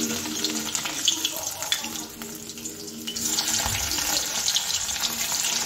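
Pieces of steamed egg sizzling and crackling as they fry in hot oil. The sizzle drops back about two seconds in and grows louder again a little after three seconds.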